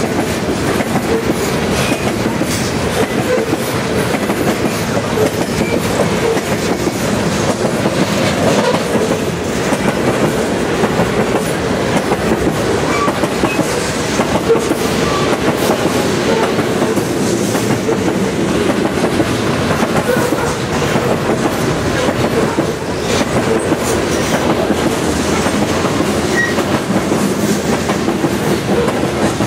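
Freight train of covered hopper cars rolling past, its steel wheels rumbling steadily on the rails.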